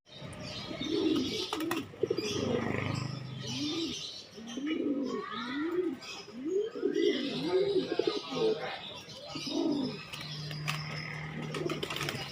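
Domestic pigeons cooing: a run of low rising-and-falling coos repeated in quick succession, with fainter higher bird chirps mixed in.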